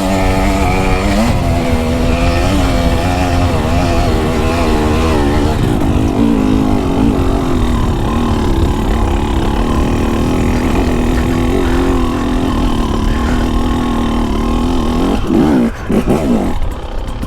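Dirt bike engine running, its pitch wavering up and down with the throttle, with a quick rev up and back down near the end.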